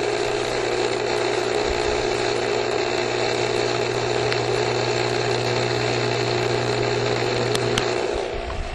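Steady mechanical hum of an outdoor motor-driven machine, even and unchanging, like a running refrigerator; it cuts off near the end.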